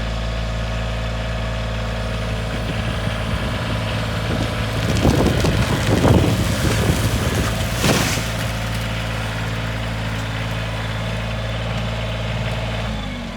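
A vehicle engine runs steadily in four-wheel-drive low while it pushes against a cut tree. From about five seconds in there is a run of loud cracking and snapping, ending in a sharp crack near eight seconds, as the tree gives way. The engine note falls away near the end.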